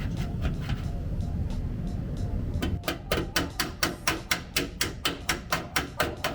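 Body-repair hammer tapping out a dent in a Mazda Roadster's fender panel: a quick, even run of sharp strikes, about four a second, starting a little before halfway in, over background music.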